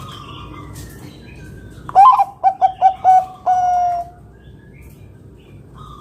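Bangkok-strain zebra dove (perkutut) cooing one loud phrase about two seconds in: a higher opening note, five quick coos, then a longer drawn-out final note. Faint chirps of other birds sound before and after it.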